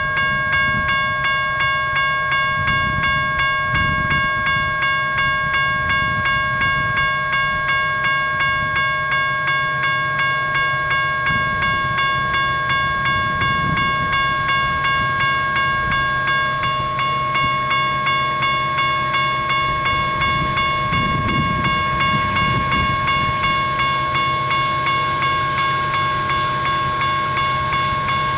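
Railroad level-crossing bell ringing steadily, about twice a second, warning of an approaching train. Underneath, the low rumble of the coal train's diesel locomotives swells and fades.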